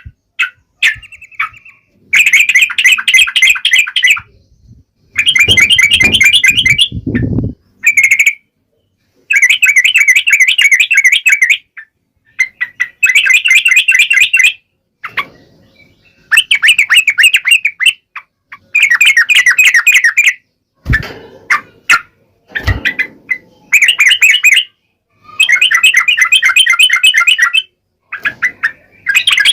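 Yellow-vented bulbul (trucukan) singing loud, sharp song phrases again and again. Each phrase is a rapid chatter of about one to two seconds, and the phrases are split by short pauses. A few low knocks come in between phrases near the middle.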